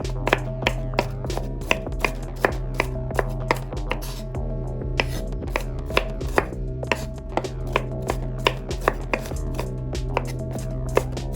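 Kitchen knife chopping food on a cutting board, a steady run of sharp strokes about three a second.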